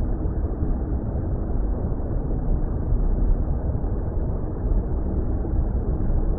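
Steady, deep underwater water rumble, an ambient noise bed with no distinct events, muffled with nothing above a middle pitch.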